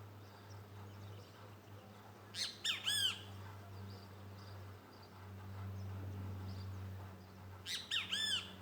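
A bird calling in two short bursts of a few harsh, arching notes, about five seconds apart, over a steady low hum.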